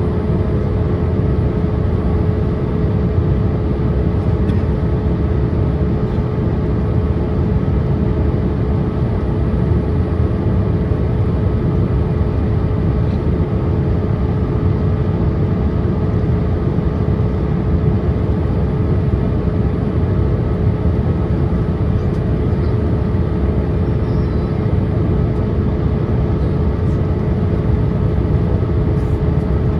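Steady cabin noise inside a Boeing 787-8 airliner on its approach: a low roar of engines and airflow with a constant hum tone, unchanging throughout.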